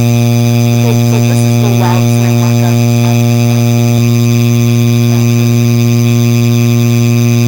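Hampton Bay Landmark III Plus ceiling fan running with a loud, steady electrical buzz, the low hum that marks this as the noisiest Landmark.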